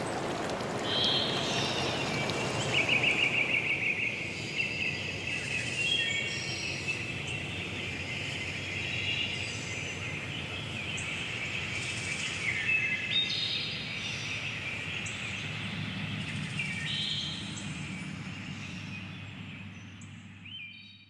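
Several songbirds singing in a forest, short repeated phrases and a quick trill, over a rushing of water that dies away in the first few seconds. The whole sound fades out near the end.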